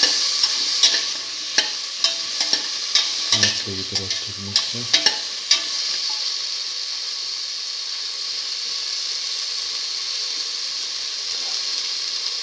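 Potato cubes, shallots, garlic and tomato sautéing in oil in a metal pot. A spatula scrapes and knocks against the pot for about the first six seconds, then only a steady sizzle of frying is left.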